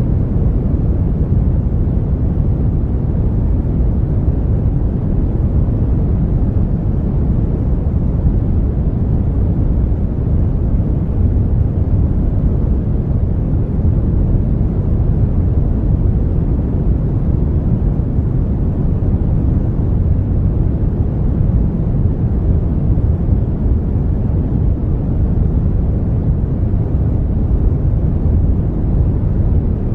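Steady brown noise: an even, unbroken hiss-like rumble weighted heavily toward the bass, with little above the midrange.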